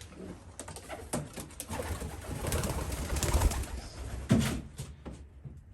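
Racing pigeons cooing in a loft, with rustling and handling noise building in the middle and a sharp knock about four seconds in.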